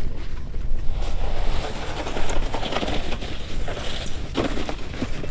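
Wind rumbling on the microphone, with a few short crunching sounds about four and a half and five seconds in.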